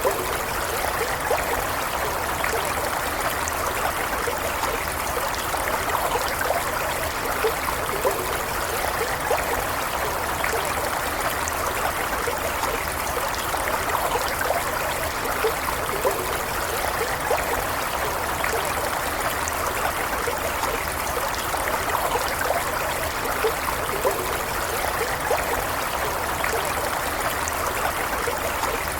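Stream water flowing steadily over stones, a continuous rushing with small bubbling and trickling flecks.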